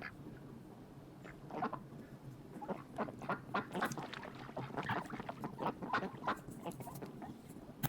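Duck quacking, a quick irregular run of short quacks that starts about a second in and keeps going.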